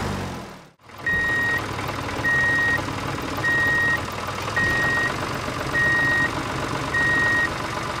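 Vehicle reversing alarm beeping steadily, a single high tone about half a second long repeating a little under once a second, over a running engine; it starts about a second in, after a short silence.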